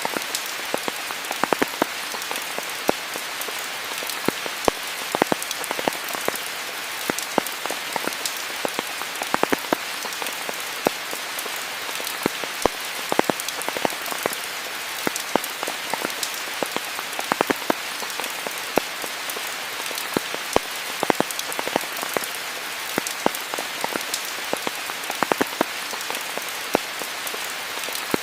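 Steady rain falling, an even hiss with many sharp individual drops striking close by, several every second.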